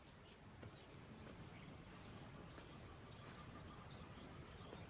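Faint outdoor ambience with a steady, high-pitched insect drone.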